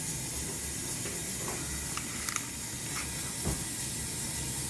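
A steady background hiss, with a few faint clicks about two to three and a half seconds in.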